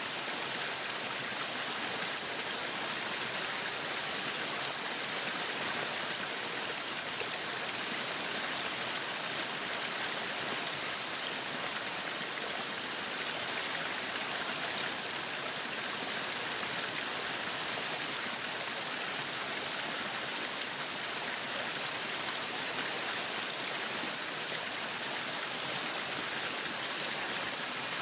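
Meat sizzling on a yakiniku grill: a steady, unbroken hiss.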